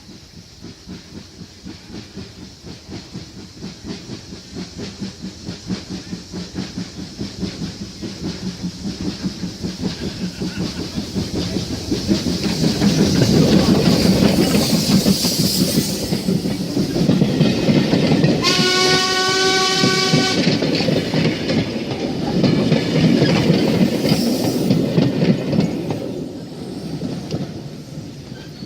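Ivatt Class 2MT steam tank locomotive working a train past, its exhaust beats building in rapid rhythm as it approaches, then fading away. About two-thirds of the way through it gives one whistle blast of about two seconds.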